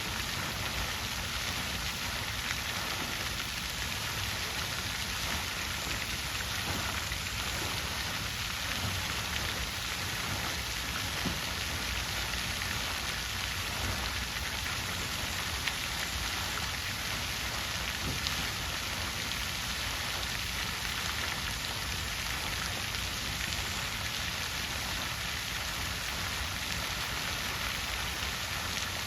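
Water fountain splashing steadily, an even hiss of falling water with a low rumble underneath.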